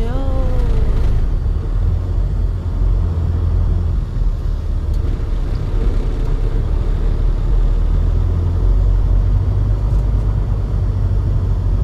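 Truck engine and road noise while driving, a steady low rumble that runs throughout.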